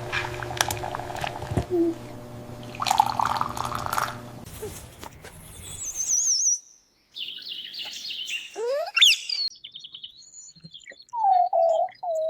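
Parrot chirps and whistles: a wavering high whistle, quick rising squeaks, and a warbling lower call near the end. These come after a first half of steady hum with clicks and a brief rush of noise.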